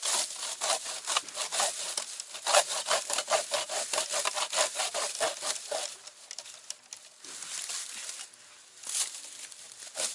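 Hand saw cutting through the wood of a small tree in quick back-and-forth strokes for about six seconds. After a pause of scattered light scraping, a short burst of strokes comes near the end.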